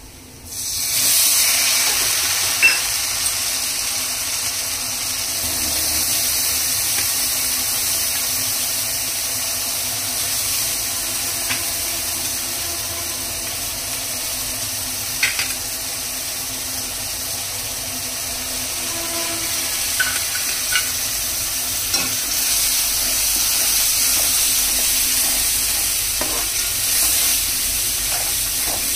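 Food sizzling steadily as it fries in hot oil in a pan. The sizzle jumps up sharply about a second in. A few light clicks of a utensil against the pan come through it.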